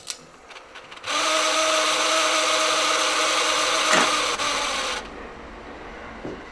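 A couple of clicks, then the TEAC A6700DX open-reel tape deck fast-winding its tape: a loud steady motor whir with a hiss of fast-moving tape, stopping about five seconds in.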